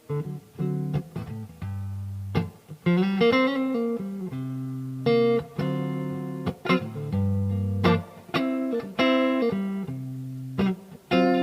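Yamaha STH 500R guitar played clean, alternating picked single notes and ringing chords that are let sustain between sharp pick attacks.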